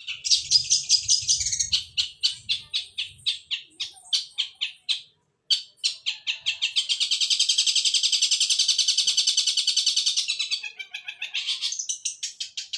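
Long-tailed shrike (cendet) singing a rapid series of high, sparrow-like chirps. After a brief break about five seconds in, the chirps run together into a fast continuous chatter for about four seconds, then go back to separate repeated chirps.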